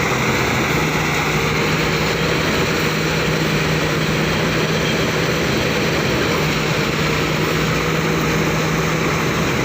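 Engine-driven rice threshing machine running steadily, a constant loud drone with a steady low hum.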